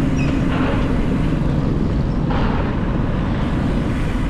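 City street traffic heard from the road while riding: a steady low rumble of engines and tyres, with a held engine hum. Two vehicles pass with a brief hiss, about half a second in and again from about two seconds in.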